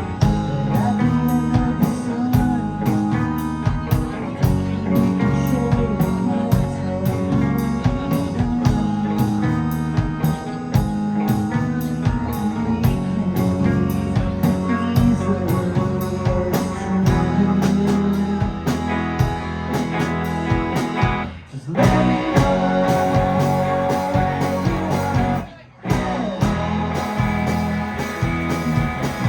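A live rock band playing a song: drum kit, electric guitar, bass and keyboards at full volume. The whole band stops briefly twice, about 21 and 26 seconds in.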